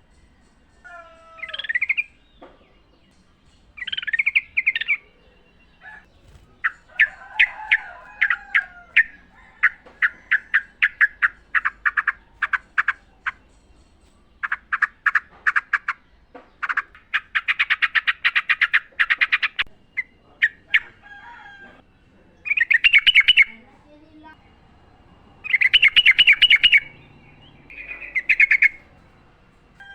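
Yellow-vented bulbuls singing and calling: short bubbly phrases alternating with long, fast trains of repeated chattering notes.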